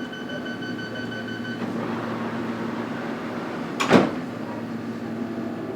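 Metropolitan line train running, heard from inside the carriage as a steady hum. A thin whine stops about a second and a half in, and a single sharp clunk comes about four seconds in.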